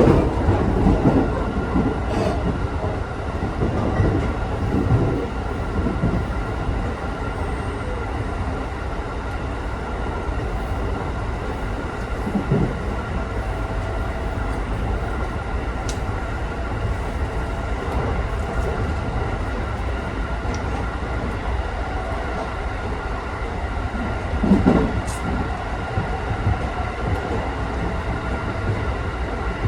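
Cabin noise of a JR Tokaido Line local electric train running between stations: a steady rumble of wheels and running gear with a faint steady whine. Brief louder knocks come about twelve seconds in and again near twenty-five seconds.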